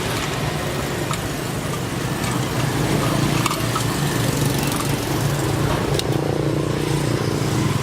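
Vacuum pump on a refrigerator service job running steadily, a continuous motor hum that grows slightly louder about three seconds in.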